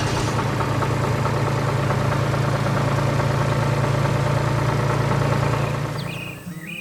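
Engine of a farm machine running steadily at a low, even pitch, fading out about six seconds in. Faint bird-like chirps near the end.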